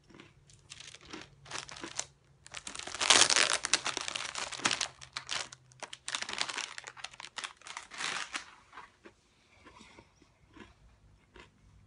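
Crunchy chewing of a cinnamon bun Oreo cookie close to the microphone. It comes in irregular bouts of crackling crunches, loudest about three to five seconds in, then dies down to a few soft clicks near the end.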